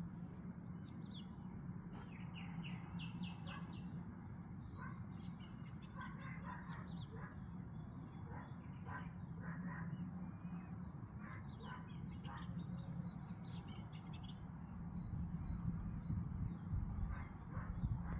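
Small birds chirping and twittering, many short calls overlapping throughout, over a steady low hum. Low rumbling builds near the end.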